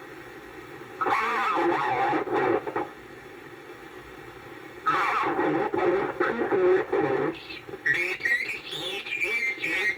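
Homebuilt regenerative receiver playing a marine weather broadcast voice in two short stretches, with steady hiss between them. From about eight seconds in, a wavering, gliding whistle comes in over it.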